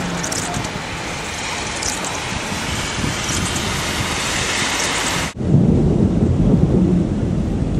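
Storm noise: a loud, steady hiss of heavy rain and wind. About five seconds in it cuts off sharply and gives way to a low wind rumble on the microphone.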